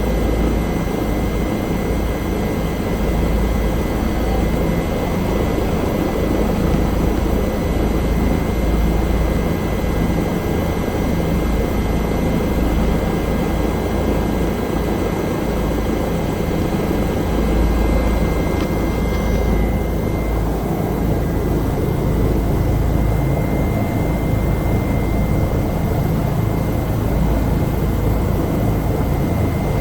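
Bell helicopter's turbine engine and rotor running steadily in flight: a continuous low rumble under a steady high whine.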